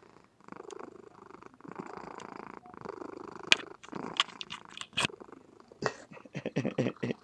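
Somali cat purring in a steady, rasping rhythm, with a few sharp clicks in the middle and louder pulses near the end.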